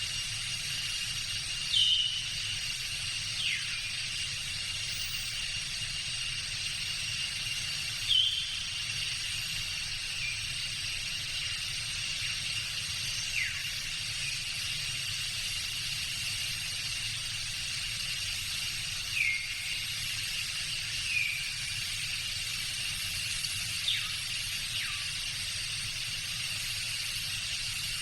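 Tropical jungle ambience: a dense, steady high drone of insects with one sustained shrill tone. Short bird calls break in now and then, about eight in all, several of them quick falling whistles.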